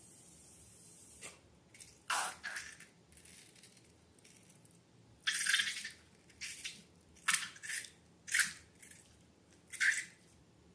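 Wet slime squishing and dripping in a string of short, separate squelches, some with a falling pitch.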